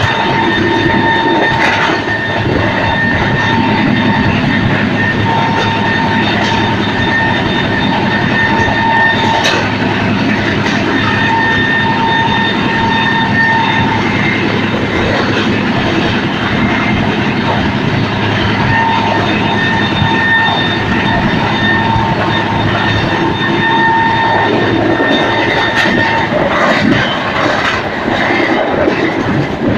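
Shan-e-Punjab Express passenger train running along the track, a loud steady rumble and rattle with a high whine that comes and goes.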